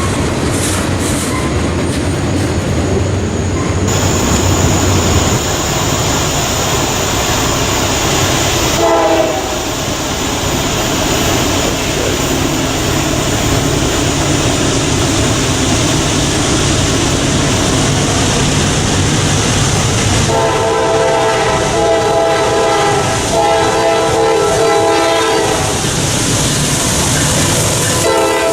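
A train running past with steady rail and wheel noise. A locomotive horn sounds briefly about a third of the way in, then gives a series of blasts later on.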